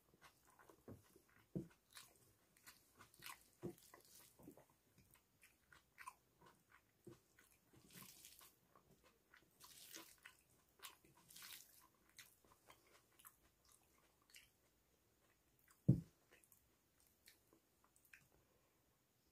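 Close-miked chewing and mouth sounds of a man eating rice, dal and mashed potato by hand: many soft, wet clicks and smacks, with one stronger dull thump late on.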